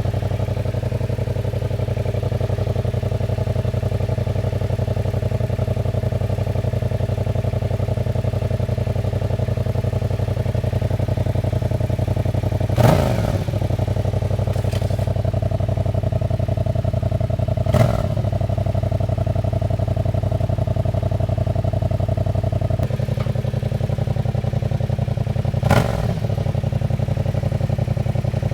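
Yamaha FZ-07's parallel-twin engine idling steadily through its cut-down stock exhaust, with three short throttle blips spread several seconds apart.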